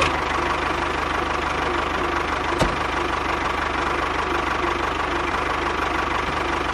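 A small engine idling steadily with a fast, even knocking pulse. A single sharp click sounds about two and a half seconds in.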